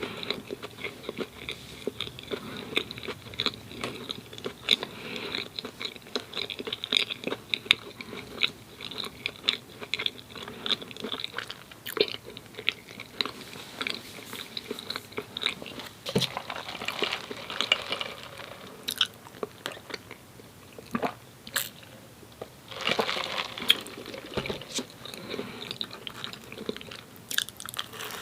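Close-miked chewing of Krispy Kreme doughnuts: a steady run of small wet mouth clicks and bites, with two busier stretches of chewing about halfway through and a few seconds later.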